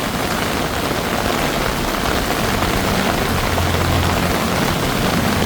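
Heavy rain pouring down in a steady hiss. About halfway through, a vehicle's engine hum comes in low and grows louder.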